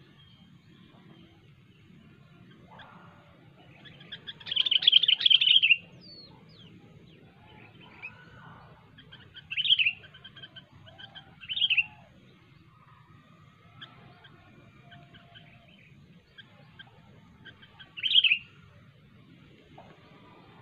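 Sooty-headed bulbul (kutilang) calling: a loud run of rapid notes lasting about a second and a half, starting about four seconds in, then three short phrases spaced several seconds apart. Fainter bird notes and a low hum run underneath.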